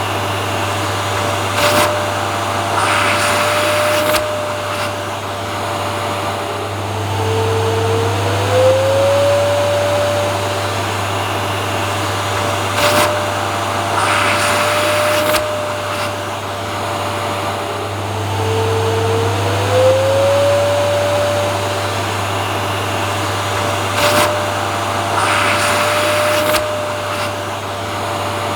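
Vacuum cleaner motor running steadily with a low hum and a whine that twice dips in pitch and glides back up. Short clicks and bursts of hiss come in a few times.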